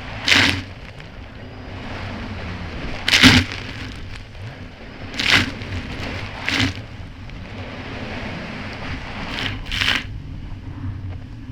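Kawasaki Ultra 300X jet ski's supercharged four-stroke engine running steadily at speed. Six loud, sudden splashes or slaps break over it, two of them close together near the end, as the craft hits choppy water.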